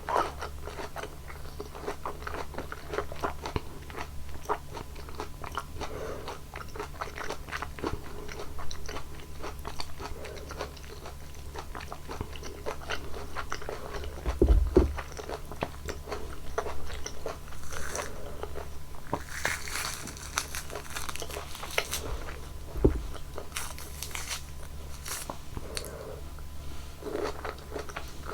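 Close-miked eating of juicy fresh fruit: repeated bites and steady wet chewing, with a run of sharper, crunchier bites in the second half.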